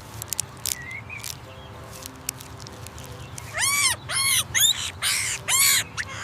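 A monkey's high calls: four short calls in quick succession starting about three and a half seconds in, each rising and then falling in pitch, after a few faint clicks.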